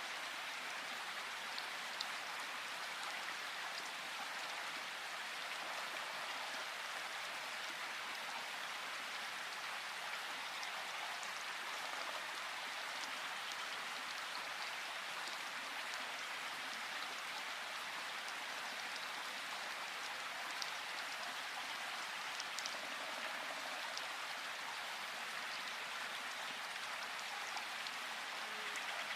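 Steady rain in a forest, an even hiss with scattered sharper drop ticks.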